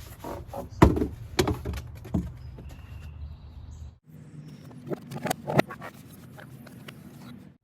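Baby babbling and squealing in short bursts, in two clusters, over a low steady hum.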